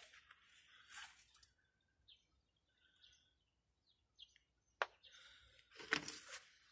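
Faint bird chirps in near quiet, with rustling around the start and near the end and a single sharp click just before five seconds in.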